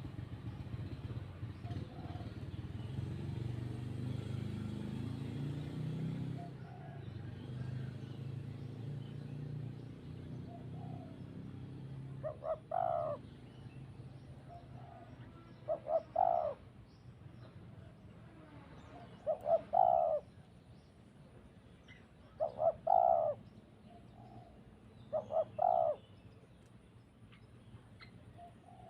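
A dove cooing, a short phrase of two or three notes repeated about every three seconds from about twelve seconds in. Under it at the start a low rumble fades out over the first ten seconds.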